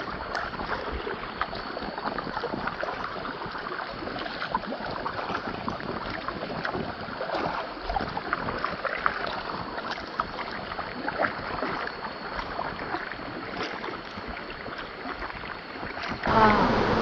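Water splashing and lapping around a kayak on a river, with many small splashes and trickles, and wind on the microphone. About 16 seconds in it cuts abruptly to a louder, steadier sound.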